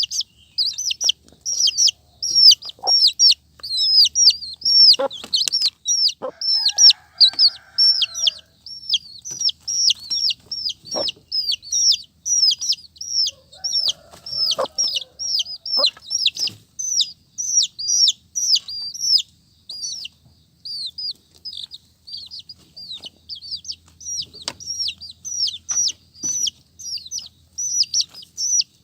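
Baby chicks peeping non-stop: a dense stream of high, downward-sliding peeps, several a second. A few short knocks and, twice, a lower drawn-out call sound under the peeping.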